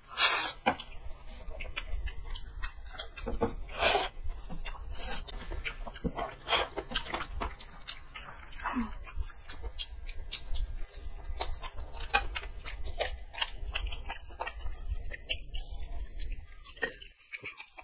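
Two people chewing and biting into fried chicken lollipops, with irregular sharp crunches. The sound drops out briefly near the end.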